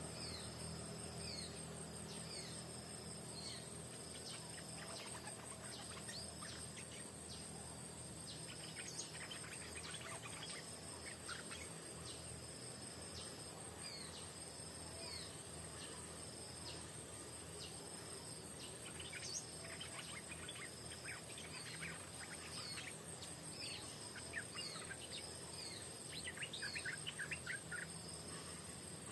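Birds calling over a steady, high-pitched insect drone: short high notes repeating all through, and a quick run of chirps near the end.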